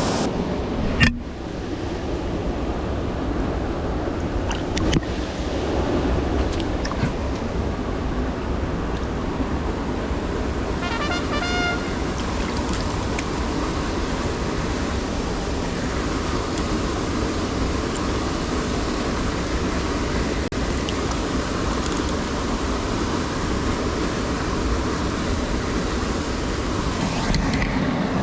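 Mountain stream rushing steadily over rocks, with a sharp knock about a second in and a brief run of high chirping notes near the middle.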